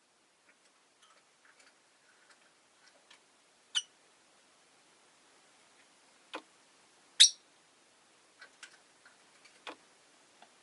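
Peach-faced lovebirds giving a few short, sharp single chirps, the loudest about four and seven seconds in, between faint scattered ticks and clicks.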